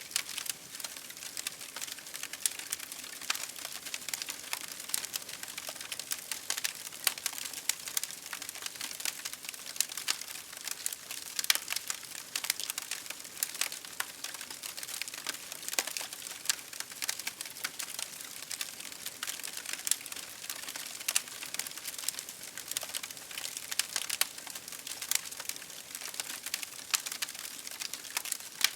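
Campfire crackling: a dense, irregular run of small sharp pops and snaps over a soft steady hiss.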